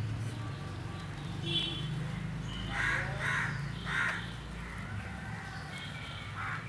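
Myna calling: a short whistled note, then a run of three harsh, grating calls about three to four seconds in and another near the end, over a steady low hum.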